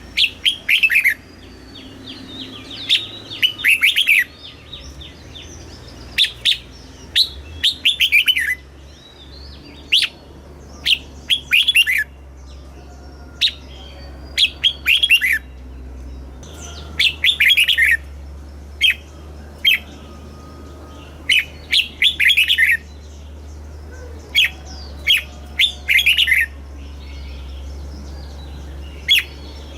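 Red-whiskered bulbul singing: short, bright phrases of quick notes sliding downward, repeated every second or two.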